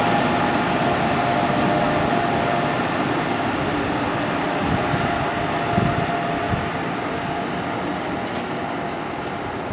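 Amtrak Acela Express electric trainset moving away along the station track, its steady running noise and a faint whine slowly fading, with a few low clunks around the middle.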